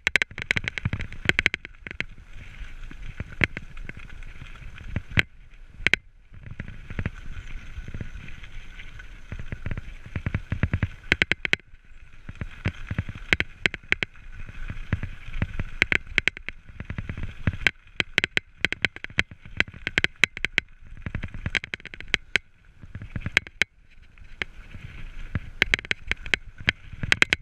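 Mountain bike ridden over rough trail, heard through a bike- or body-mounted camera: irregular rattles and knocks from the bike and mount over bumps, with steady rolling and wind noise.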